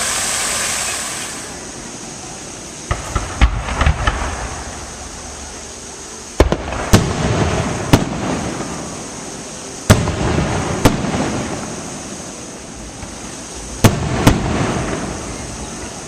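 Aerial fireworks bursting: a steady hiss fades out, then a run of crackling reports about three seconds in, followed by single sharp bangs every second or two, each trailing off in a low rumbling echo.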